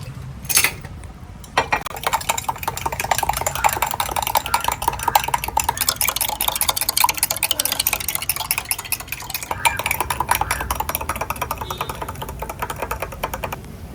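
A spoon stirring lemon sharbat in a glass: a quick, continuous run of clinks against the glass that starts after a couple of knocks and stops just before the end.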